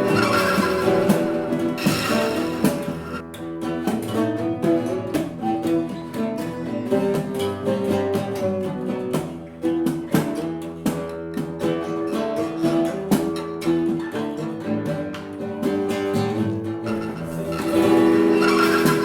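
A rock band playing an instrumental passage, led by guitar with bass underneath. It is fuller and louder at the start and again near the end.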